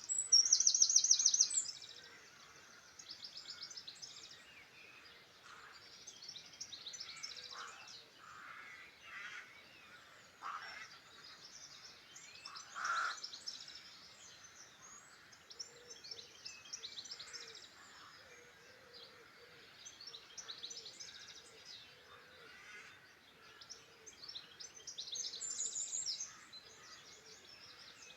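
Several songbirds singing and chirping together. There is a loud, fast run of high repeated notes in the first two seconds and another about 25 seconds in, with softer calls between.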